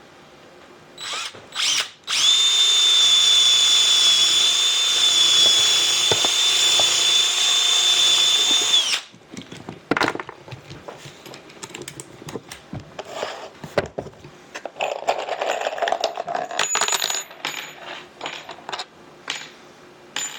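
Power drill, two short bursts and then a run of about seven seconds with a steady high whine that stops suddenly, likely driving a 3-inch screw. After it come scattered knocks and clatter of handling wood and tools.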